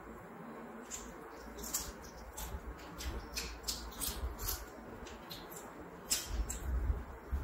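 Close-miked chewing and mouth sounds of a person eating by hand: irregular wet clicks and smacks at an uneven pace.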